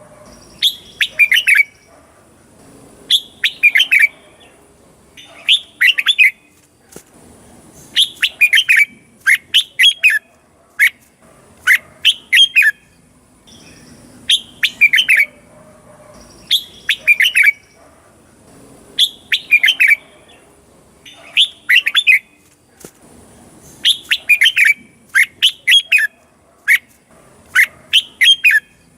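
Red-whiskered bulbul singing: short, quick phrases of a few clear, bubbling notes, repeated every second or two.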